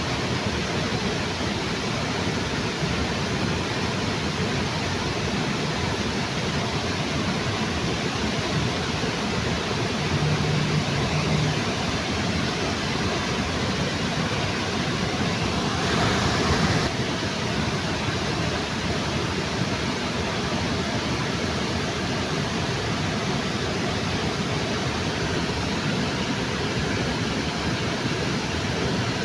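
Waterfall rushing steadily, with one brief louder swell a little past halfway.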